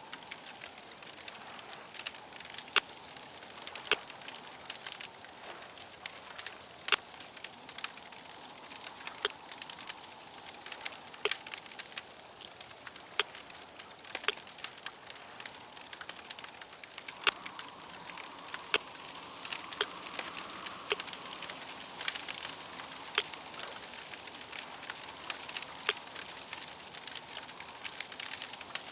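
Crackling fire: a steady hiss broken by irregular sharp pops.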